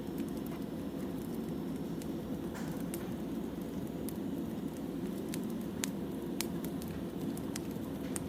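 Firewood burning: a steady low rushing hiss with irregular sharp crackles and pops, a few louder pops between about five and six and a half seconds in.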